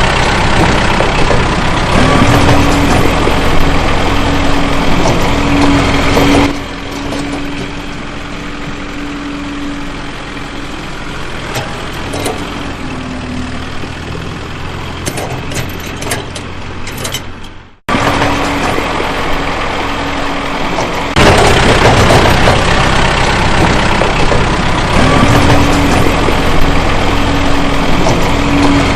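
Engine running steadily with a held hum, in several stretches joined by abrupt cuts: quieter from about six seconds in, a brief drop-out near eighteen seconds, then louder again from about twenty-one seconds.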